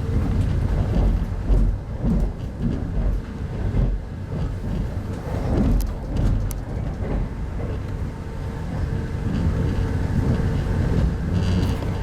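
Running noise of a 25T passenger coach at speed, heard inside the coach: a steady low rumble of wheels on rail with a faint steady hum. A few light clicks come about halfway through.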